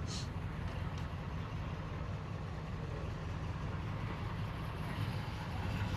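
A car engine idling, a steady low rumble, with a brief click at the very start.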